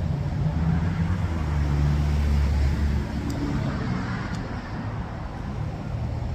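Road traffic: a vehicle engine's low hum over traffic noise, growing louder between about one and three seconds in and then easing off.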